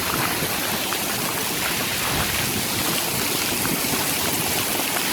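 Heavy hail pelting down: a dense, steady clatter of countless hailstones striking the ground and surrounding surfaces.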